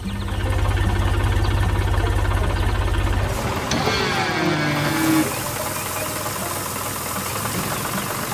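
Cartoon vehicle engine sound effect: a loud, low, rapid chugging that cuts off about three seconds in, followed by quieter tones that slide up and down in pitch.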